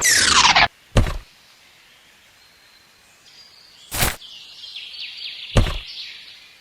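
A quick falling whistle-like glide, then three sharp thumps about one, four and five and a half seconds in, with faint bird chirps near the end.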